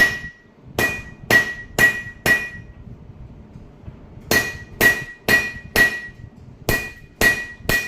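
Hammer blows on metal over an anvil, each strike ringing at one clear pitch. They come about two a second in three runs of a few blows, with short pauses between. This is the sound of drawing out the stock by hand.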